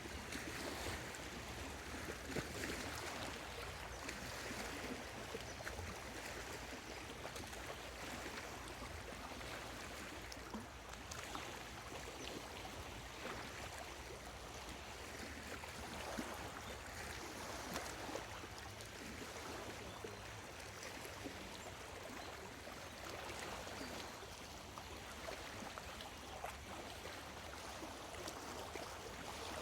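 Small lake waves lapping at the shore of Lake Biwa: a steady wash of water that swells softly every couple of seconds.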